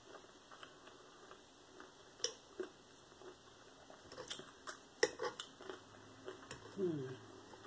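Eating sounds close to the microphone: scattered small clicks and smacks of chewing and of utensils, with a short falling voiced sound near the end.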